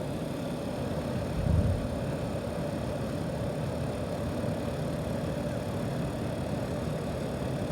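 Steady rush of air blowing from a clothes dryer's exhaust vent with the dryer running, the flow restored now that a total lint blockage has been cleared. A brief low thump comes about a second and a half in.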